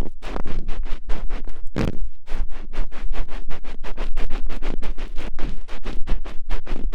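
Ear-picking ASMR: rapid scratching strokes at the microphone, about six or seven a second, with one heavier scrape about two seconds in.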